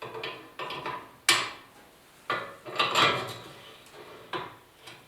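Small metal parts clinking and knocking against each other and a hard surface while being sorted through by hand: about six separate sharp clinks, the loudest about a second in.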